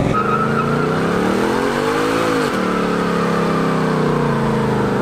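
Ford Mustang engine held at high revs during a burnout, rear tyres spinning in smoke. The pitch climbs from about a second in, drops sharply about halfway through, then holds steady.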